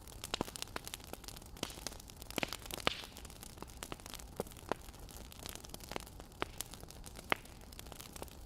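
Wood fire crackling: a steady low hiss with irregular sharp pops and snaps, two louder pops, one about three seconds in and one near the end.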